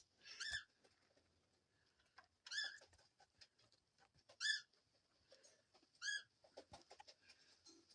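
A bird's short, high chirp repeated four times, about two seconds apart, with faint light scratching and tapping between calls.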